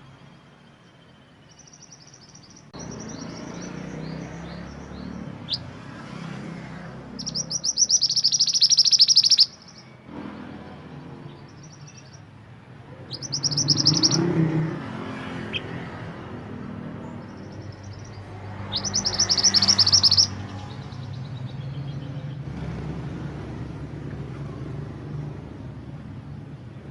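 Mantenan gunung songbird singing: loud, rapid, high trilling phrases about every five or six seconds, with softer short notes between them, over a steady low rumble.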